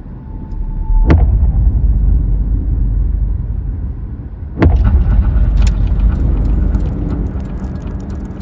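A deep, steady rumble broken by two sudden booming hits, about a second in and three and a half seconds later, each one lifting the rumble louder.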